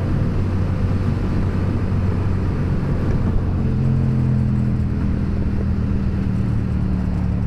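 Yamaha FZ-07's parallel-twin engine running steadily while riding in traffic, its note settling into a held pitch about halfway through.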